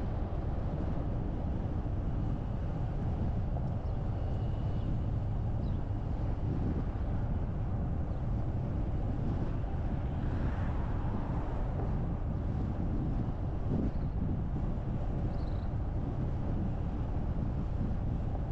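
Steady low rumble of a car driving along a road, with tyre and wind noise.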